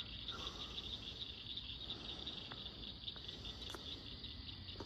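Crickets chirping in a steady, high-pitched, fast-pulsing trill, with a few faint clicks.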